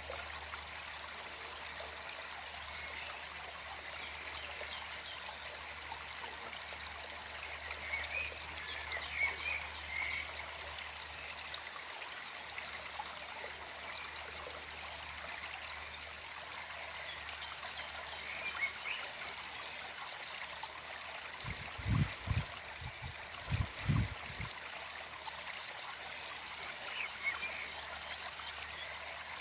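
Small forest stream flowing steadily, with a bird giving short quick three-note calls every several seconds. A cluster of a few low thumps about two-thirds of the way through.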